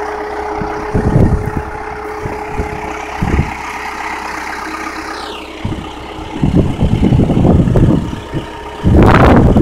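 Truck engine running steadily, with a falling whine about five seconds in and loud uneven bursts of noise over it near the end.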